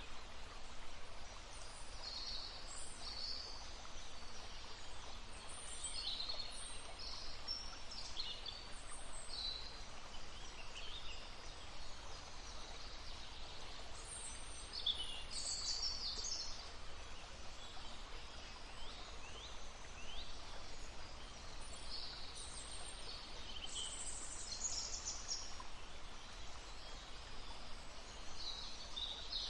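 Several songbirds chirping and singing in short, high phrases over the steady rush of a babbling brook.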